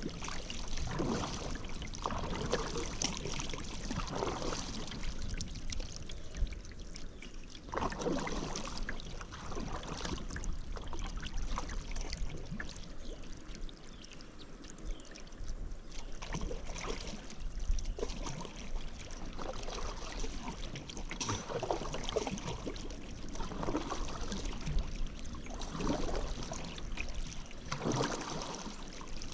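Paddle strokes dipping and swishing through river water, a splash about every second or two.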